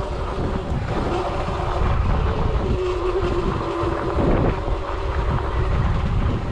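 Riding an electric dirt bike on a dirt trail: wind buffeting the microphone and tyres rumbling over the ground, with the thin whine of the electric motor that sags slightly and breaks off about four seconds in.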